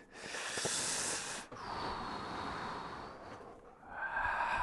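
A person's audible breathing close to the microphone: a sharp breath for about a second and a half, then a longer breath out, followed near the end by a short voiced sound like a thoughtful 'hmm'.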